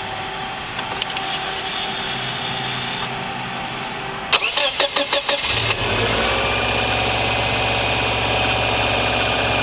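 Subaru EJ20G turbocharged flat-four cranked on the starter for about a second and a half, catching about six seconds in and settling from a brief flare toward idle. This is the engine being recorded for a knock. A few light clicks come about a second in.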